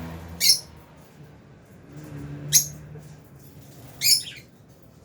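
Lovebirds giving three sharp, high-pitched chirps about two seconds apart, the last one a little longer.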